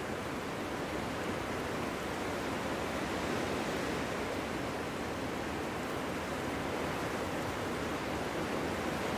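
Steady winter wind blowing, a continuous rushing noise that swells gently and eases without a break.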